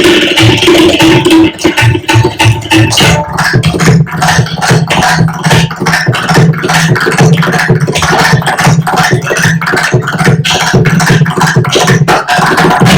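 Fast live percussion playing: dense, rapid strokes over a deep, repeating drum tone, with no pause.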